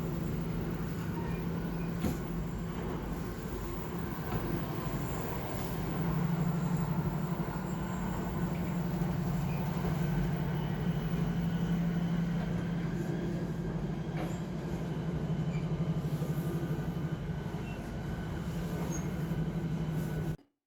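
Shinkansen bullet train running, heard from inside a passenger car: a steady low rumble with a faint whine, a little louder about a third of the way in. It cuts off suddenly just before the end.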